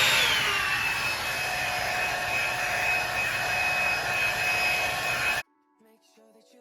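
Revlon One-Step hair dryer brush running: its motor whine drops in pitch about half a second in, then holds steady over rushing air. It cuts off suddenly near the end, and faint music follows.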